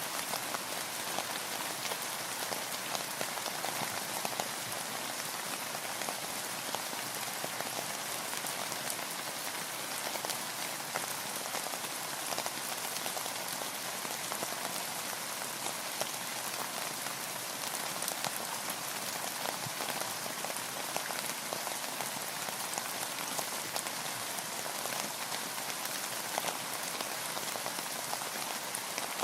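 Steady rain falling: an even hiss with a dense patter of individual drops striking surfaces, unchanging throughout.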